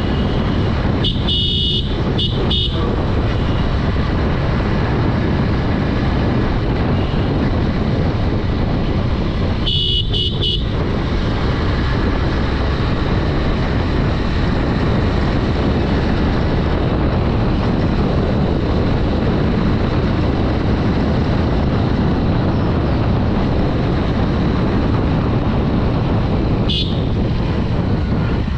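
Riding noise from a Honda Dream 110 motorcycle, steady wind rush over the microphone mixed with the engine running, interrupted by horn beeps: a short burst of beeps about a second in, a longer beep about ten seconds in, and a brief one near the end.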